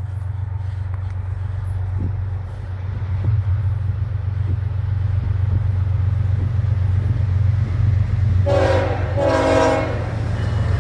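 BNSF ES44DC diesel locomotive approaching with a low engine rumble that slowly grows louder, then sounding its horn in two blasts near the end.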